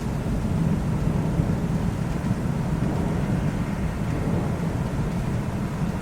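Thunderstorm: a long, steady low rumble of rolling thunder over a fainter hiss of rain.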